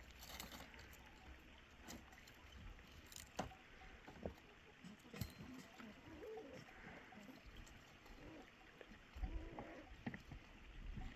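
Faint scattered knocks and clicks, a handful of separate sharp taps, over a quiet steady hiss, with a few soft low thuds near the end.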